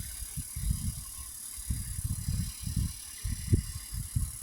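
Galaxy 9-inch desk fan running, its airflow buffeting the microphone in irregular low rumbles over a steady hiss. The fan's blade is out of balance.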